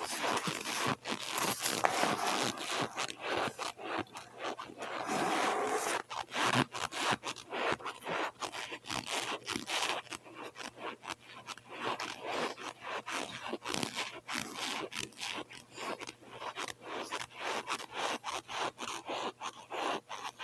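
Close-miked chewing of cold boiled cornstarch chunks: a dense, uneven run of crunches and crackles with some scraping.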